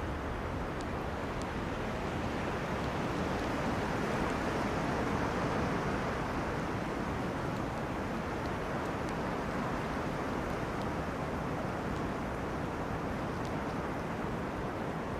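Wind blowing through forest trees: a steady rush that swells about four to six seconds in and then eases, with a few faint light ticks.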